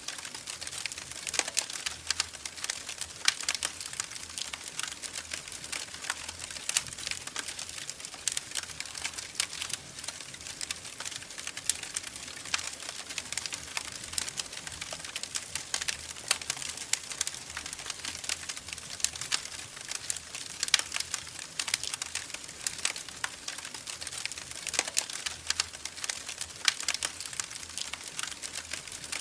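Wood fire crackling in a fireplace: a steady, dense run of small irregular crackles and snaps, with an occasional louder pop.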